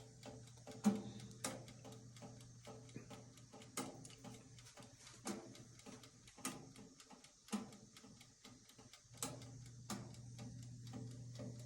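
Convection toaster oven running, with a faint steady hum from its small circulating fan and scattered, irregular light ticks.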